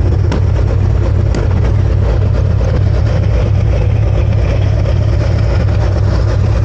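Harley-Davidson motorcycle engine idling with a steady low rumble.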